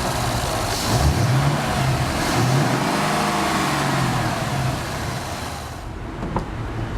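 2011 Ford Mustang GT's 5.0-litre V8 running, its revs rising and falling a few times, then quieter near the end.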